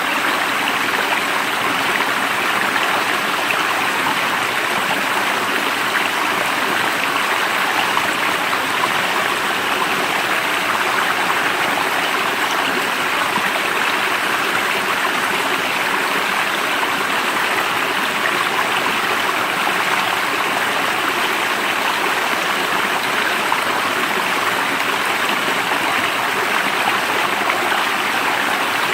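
Water of a stream running steadily, an even, unbroken rush.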